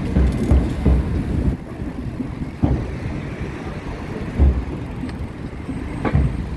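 A steady low rumble with about five irregular low thumps, typical of wind buffeting the microphone and road rumble while riding a bicycle.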